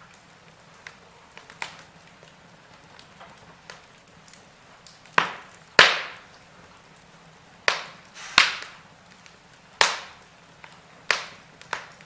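Wood fire in a fireplace crackling: a low steady background with sharp pops and snaps, a cluster of loud ones about halfway through, each dying away quickly.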